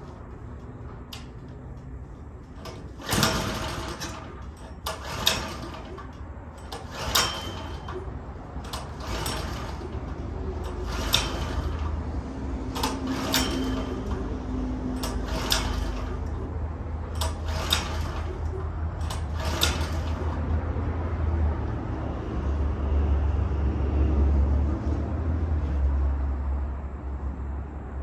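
Lawnmower's recoil starter rope pulled again and again, about one pull every two seconds, nine pulls in all, without the engine starting. A steady low rumble follows in the later part.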